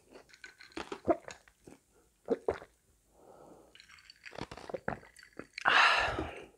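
Close-miked chewing of a fried chicken nugget, with small crunches and mouth clicks. He then takes gulps of cola from a glass, and a loud breathy exhale comes near the end.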